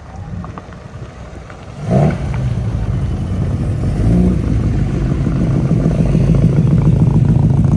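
A car engine: faint at first, it comes in loud about two seconds in and then runs steadily.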